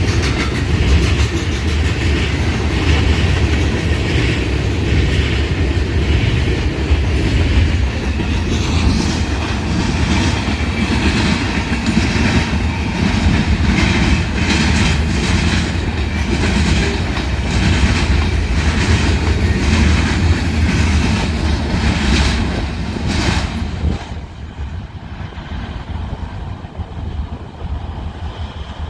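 Train rolling past, its wheels clacking steadily over the rail joints under a constant rumble. The sound drops off sharply about 24 seconds in as the train moves away.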